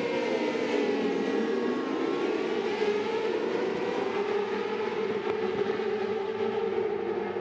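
A pack of 600cc supersport racing motorcycles running at high revs together, several engine notes overlapping.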